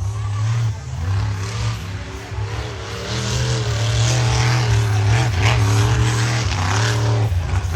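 Monster truck engine revving hard, its pitch rising and falling over and over as the throttle is worked, growing louder about three seconds in.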